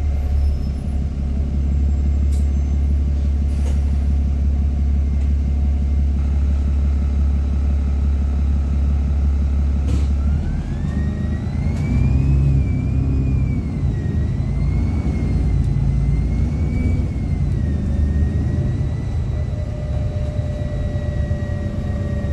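Bus engine heard from inside the bus, holding a steady low drone for about ten seconds. It then pulls away: a whine rises in pitch and settles into a steady tone.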